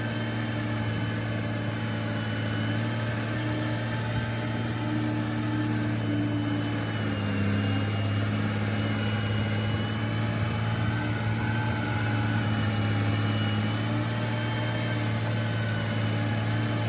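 Heavy earthmoving machine's engine running steadily with a deep, even hum.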